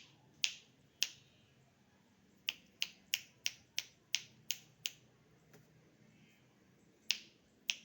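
A dozen sharp finger snaps: two near the start, a quick run of eight at about three a second in the middle, then two more near the end. They are made to coax a tame bird to climb up.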